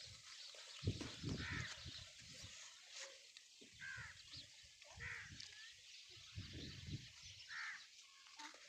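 A bird calling repeatedly and faintly, with short arched calls a second or two apart, over an uneven low rumble.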